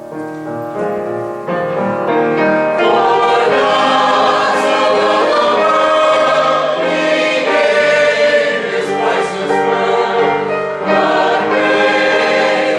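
A choir singing a sacred cantata, with long held chords that swell louder about three seconds in.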